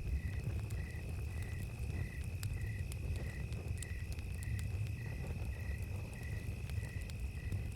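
Crickets chirping at night: a steady high trill with a second chirp pulsing about twice a second, over a low steady rumble and scattered faint crackles from a campfire.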